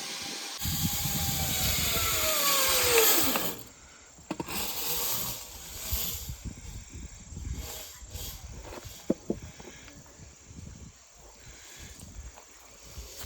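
Zip line trolley running along the steel cable with a whirring rush and a whine that falls in pitch, stopping abruptly about three and a half seconds in. After it stops there are faint low rumbles and a few small knocks.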